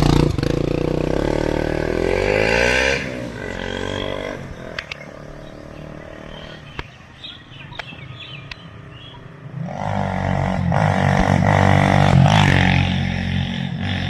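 KTM Duke 125's single-cylinder engine revving up, its pitch rising for the first three seconds, then dropping suddenly to a much quieter low run. About ten seconds in it revs up loudly again and holds there.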